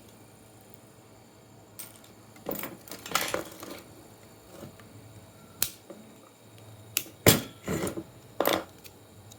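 Hand tools and small parts being handled: a rough scraping stretch a few seconds in, then a string of sharp clicks and knocks, the loudest about two-thirds through.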